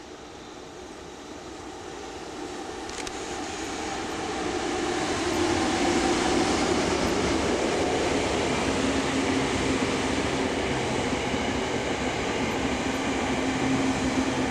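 Train approaching and running past at close range: the rumble of wheels on rails grows over the first five seconds, then holds loud as the cars go by, with a steady low tone under it.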